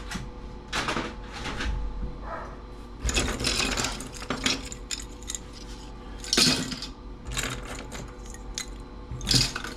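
Irregular clicks, knocks and rattles of plastic and metal stereo parts being pulled apart and handled, with a faint steady hum underneath.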